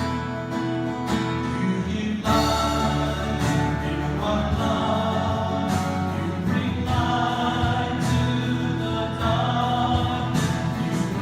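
Christian worship song: a group of voices singing together over strummed acoustic guitar, with the singing coming in fuller about two seconds in.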